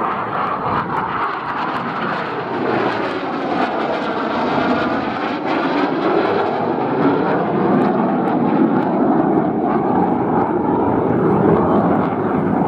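Fixed-wing aircraft flying past, its engine noise loud and continuous, swelling slightly toward the end.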